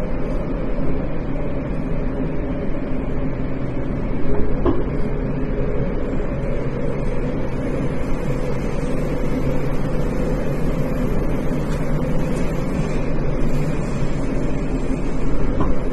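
Tokyo Metro 10000 series subway car running at speed, heard from inside the car: a steady rumble of wheels on rail with a low motor hum. A brief click about four and a half seconds in and another near the end.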